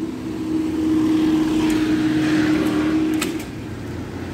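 Level crossing warning alarm sounding as a steady tone, which cuts off suddenly about three seconds in with a couple of clicks, while a road vehicle passes.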